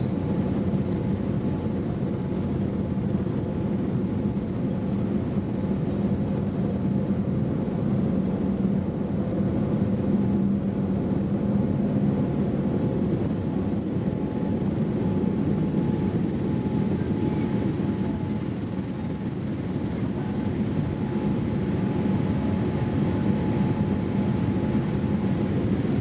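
Steady, even noise of a Boeing 787-8 airliner heard inside its cabin, with a low hum and a few steady tones in it.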